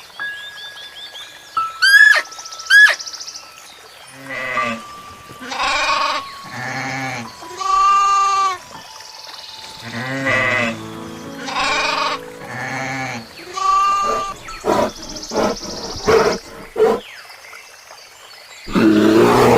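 Goats bleating: a string of wavering, quavering calls one after another, over soft background music.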